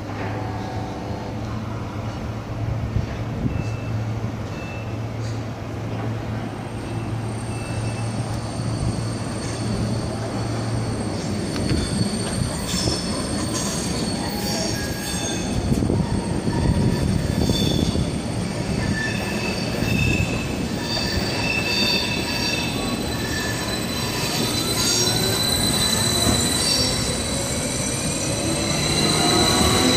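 SBB double-deck electric trains moving through a station: a steady low hum at first, then the rumble of wheels on the rails with scattered high-pitched wheel squeals from about twelve seconds in. Near the end a rising whine sets in as a train gathers speed close by.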